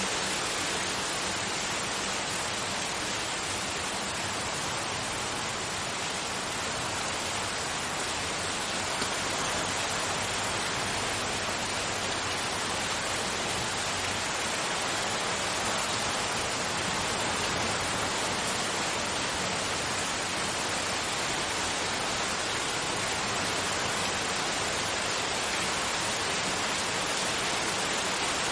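Steady, continuous broadband noise of white-noise type, even from low to high with the top end rolled off, without any pitch, rhythm or change.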